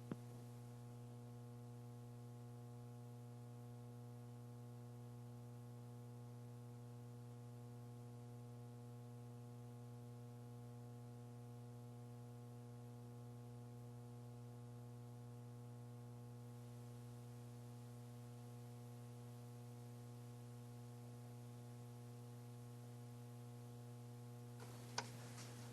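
Faint steady electrical hum with light hiss on an open audio line, with one small click near the end.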